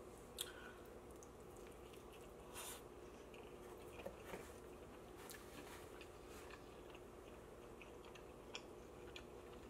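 Faint chewing of pizza, with scattered soft mouth clicks and smacks, over a low steady room hum.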